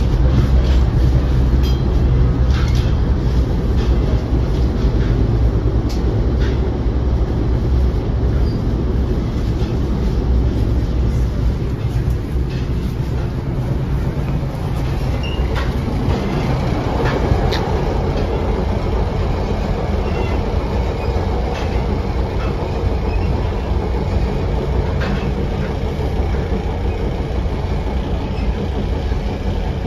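Interior sound of an NJ Transit Comet commuter coach in motion: a steady low rumble of the wheels on the rails with scattered clicks and rattles. The rumble eases somewhat about halfway through.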